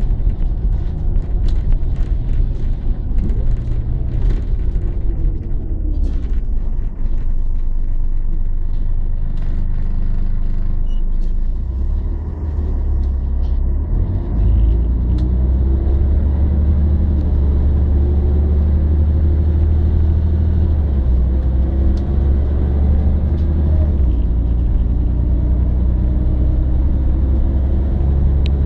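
Scania L113 city bus's diesel engine running with a steady low rumble, with scattered rattles and clicks in the first half. About halfway through, the engine sound gets stronger and heavier, with faint rising tones above it.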